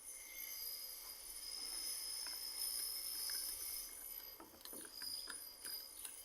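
Scattered light clicks and taps of metal parts of a hand plane being handled, over a faint steady high-pitched whine.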